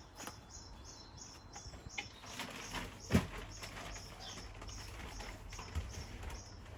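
Garden birds chirping: a steady run of short, high chirps repeated about three times a second. A single knock sounds a little after three seconds in.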